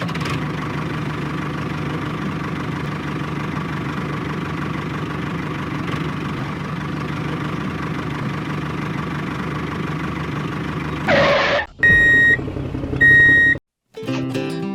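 A small motor running steadily with an even hum. Near the end comes a short loud rush of noise, then two high electronic beeps about a second apart.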